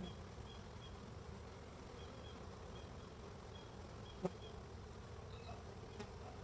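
Honeybees buzzing steadily at the entrance of a busy hive, with a great many bees flying out to forage. Short, faint high chirps repeat about twice a second, and there is one sharp click about four seconds in.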